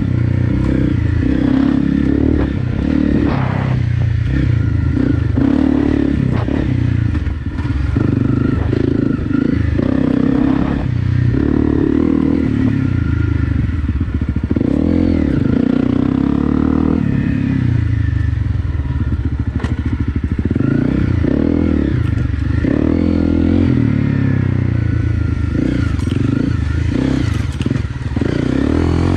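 Honda CRF250 Rally's single-cylinder four-stroke engine, fitted with an FMF PowerCore 4 exhaust, running hard on a trail ride with the revs rising and falling. Short knocks and clatter from the bike run through it.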